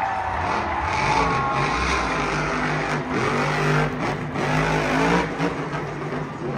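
Monster truck engine revving hard, its pitch rising and falling several times, with a few short sharp knocks about halfway through.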